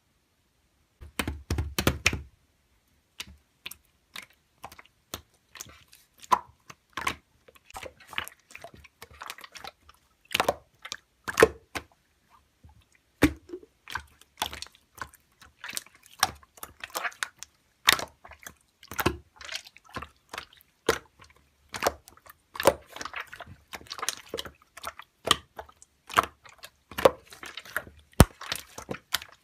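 Slime being squeezed and pressed by hand, making irregular wet clicks and small pops that begin about a second in.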